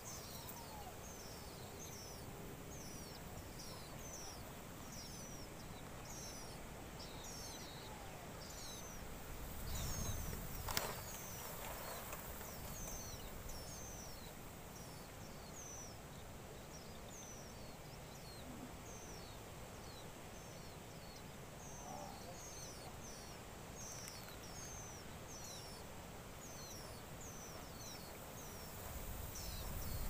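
Small birds chirping: a steady string of high, thin, down-slurred chirps, about two a second. A short rumble with a sharp knock comes about ten seconds in, and another rumble near the end.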